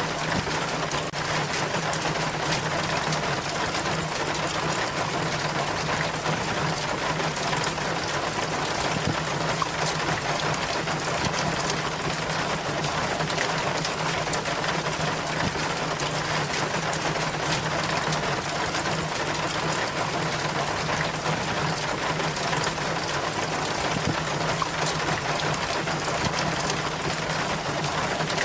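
Rainwater running down a rain chain: a steady, dense splashing and trickling full of small drips, with a steady low hum underneath.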